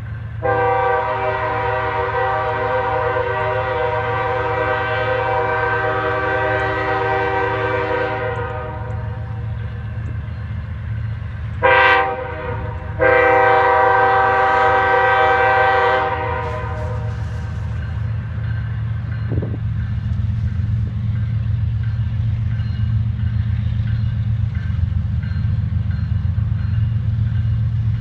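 Diesel freight locomotive's air horn sounding a long blast, a short one and another long one, over the low rumble of the passing train's engines.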